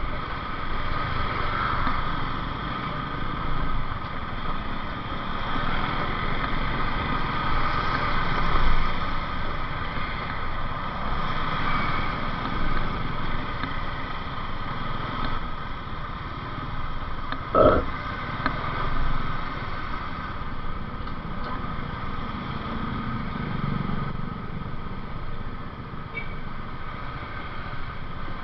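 Motorcycle being ridden on the road: the engine runs steadily under wind and road noise. One short, sharp knock sounds about two-thirds of the way through.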